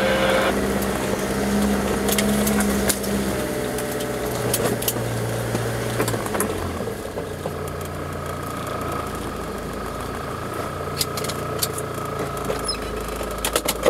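Four-wheel-drive vehicle's engine running slowly on a rough dirt track, heard from inside the cabin, its pitch stepping down about halfway through. Scattered clicks and knocks from the vehicle working over the bumps.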